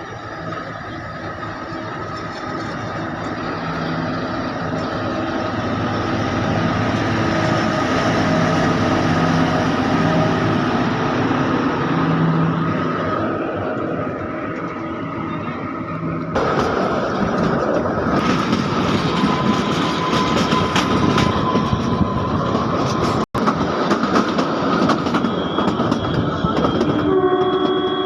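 Kalka–Shimla narrow-gauge train running, with a steady rumble of wheels and carriages heard from on board. The sound changes abruptly about halfway through and cuts out for an instant a few seconds later.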